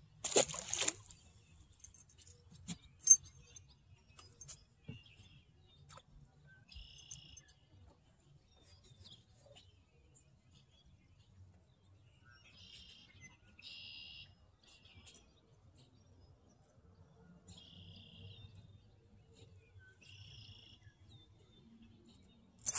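Birds chirping on and off in short calls, over a faint steady low rumble. A short rush of noise comes just after the start and again at the very end, and a single sharp click about three seconds in is the loudest sound.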